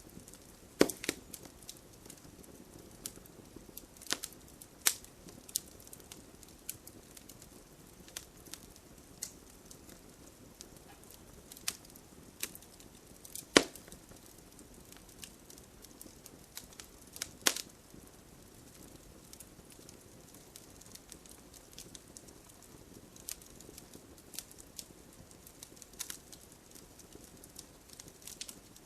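Campfire crackling: irregular sharp pops and snaps of burning wood over a low steady hiss of flame, the loudest pops about a second in, about halfway through, and a few seconds later.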